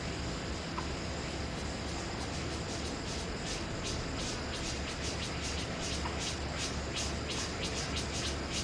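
Insects chirping in an even rhythm of short high-pitched pulses, about two or three a second, over a steady low background hum.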